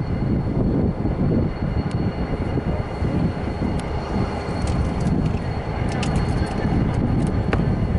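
Diesel freight locomotive engine running, a steady low rumble, with a few faint clicks near the end.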